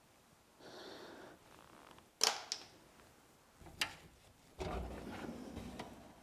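Metal machine parts being handled and taken off: a short rustle, then sharp clicks, the loudest about two seconds in, followed by a longer clatter and sliding noise in the second half.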